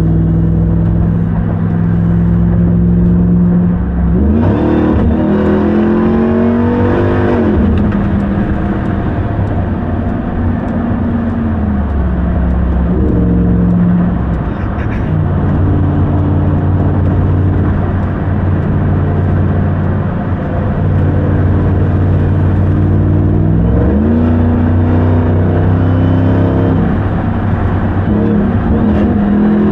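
Supercharged 6.2-litre Hemi V8 of a 2021 Ram 1500 TRX pickup running under way. Its note holds steady, rises in pitch as it accelerates about four seconds in and again near the end, and falls back several times in between.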